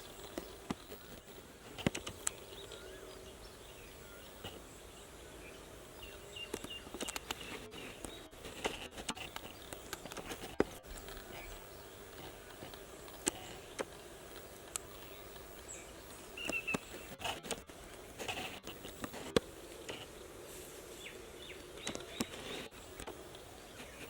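Rural outdoor ambience: short, scattered bird chirps over a steady low hum, with irregular sharp clicks and crackles throughout.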